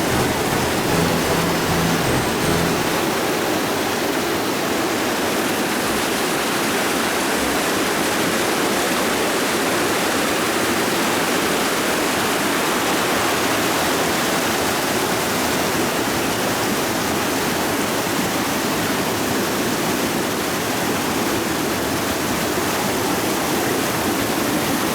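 Creek water rushing and splashing over rocks, a steady, even noise.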